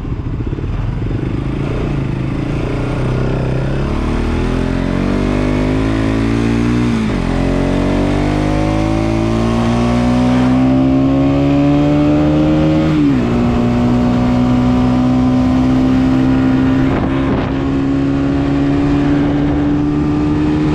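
Motorcycle engine accelerating through the gears: its pitch climbs, drops sharply at an upshift about seven seconds in and again about thirteen seconds in, then holds nearly steady as it cruises, with constant wind noise.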